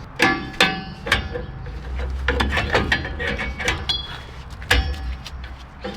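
Metal hand tools and rear brake parts clinking and knocking, a run of sharp clicks and clanks with short metallic ringing, several heavier knocks near the start and one near the end.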